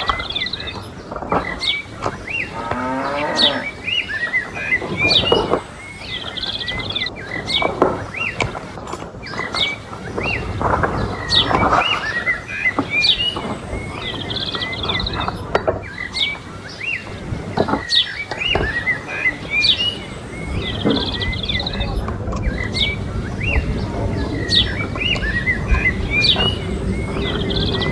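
Cattle mooing now and then, with small birds chirping over and over throughout.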